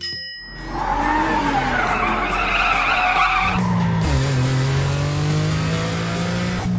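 Cartoon car tyres screeching for about three seconds, starting just after a brief drop-out. A steady low hum follows near the end.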